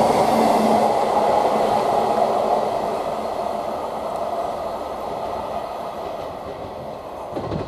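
Class 158 diesel multiple unit running through the station at speed. Its engine and wheel noise is loud at first and fades steadily as it draws away, with a steady low hum dropping out about a second in.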